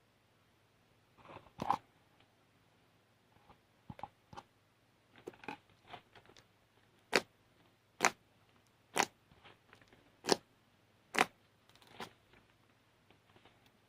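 A series of sharp clicks or taps in a small room, the loudest five coming about a second apart in the second half, with fainter ones scattered before.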